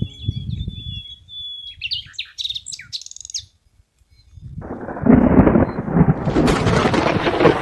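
Small birds chirping over a soft low rumble; after a moment of near silence, a loud rumbling, crackling noise sets in and builds, heavy in the low end.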